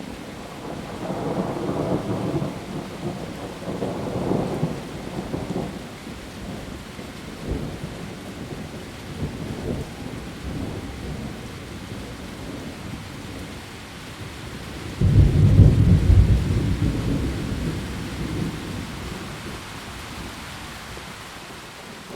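Steady rain with rolling thunder: low rumbles swell and fade in the first few seconds, and a louder, sudden clap of thunder breaks about two-thirds of the way through, then rumbles away over several seconds.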